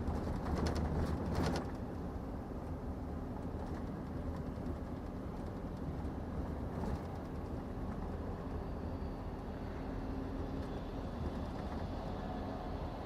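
Scania truck's diesel engine and road noise, a steady low drone heard from inside the cab while cruising. A few clicks sound in the first second and a half.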